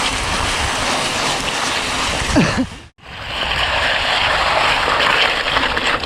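Steady rushing noise of wind over the microphone and tyres rolling as a mountain e-bike is ridden. The sound drops out abruptly for a moment about three seconds in, then picks up again.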